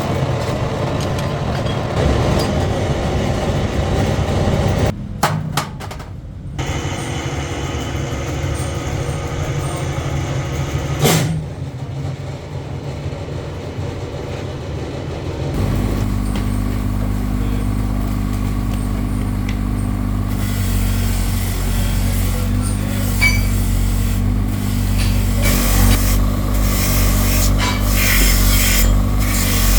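Workshop machinery running with a steady mechanical hum. The sound changes abruptly about halfway through to a steadier, lower hum.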